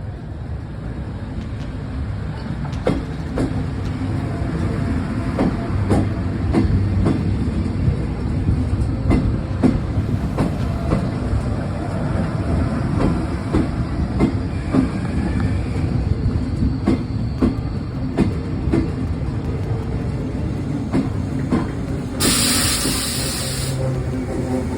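Berlin S-Bahn class 485/885 electric train running on the rails, with a steady rumble and repeated clicks of the wheels over rail joints. A short, loud hiss comes near the end.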